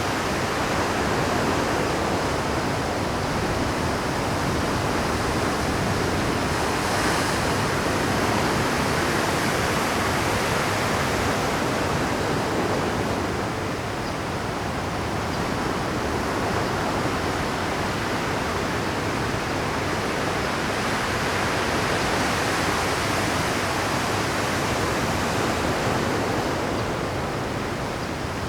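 Rough Pacific surf breaking continuously on a rocky shore, a steady rush of crashing waves. It eases briefly about halfway through and again near the end.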